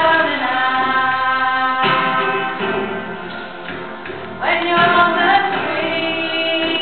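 A choir singing sustained chords, swelling louder about four and a half seconds in.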